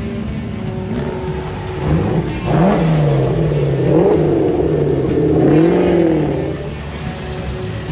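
Car engine revving up and down about three times, its pitch rising and falling smoothly, then dropping back near the end.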